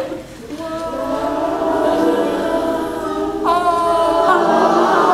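A large group of people vocalizing together, many voices holding long tones at once like a chant. About three and a half seconds in, one louder voice leaps up in pitch and slides back down.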